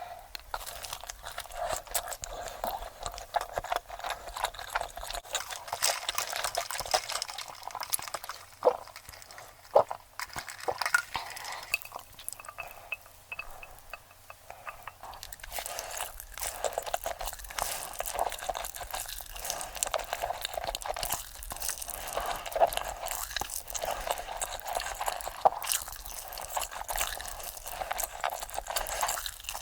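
Sped-up, close-miked eating sounds: a dense stream of crunching, chewing and wet mouth clicks.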